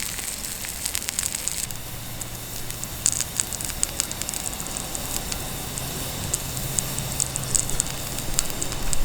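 Lamb sizzling on a thick iron griddle over a wood campfire, with the fire crackling. The steady sizzle hiss drops away a couple of seconds in, leaving scattered sharp pops.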